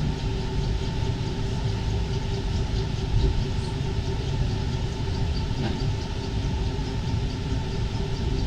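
Paris Métro MP 05 rubber-tyred train running between stations, heard from on board: a steady rumble with a constant electric motor hum.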